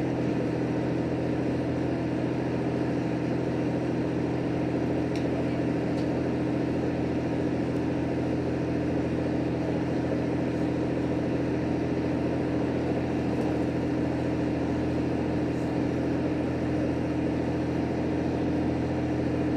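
Steady drone of a JR Hokkaido H100 diesel-electric railcar under way, heard from inside the car: an even engine hum with the rolling noise of wheels on rail.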